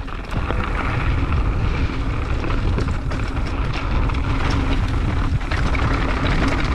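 Mountain bike descending a dirt trail at speed, heard from a rider's camera: steady wind rumble on the microphone over tyre noise and small clicks and rattles from the bike.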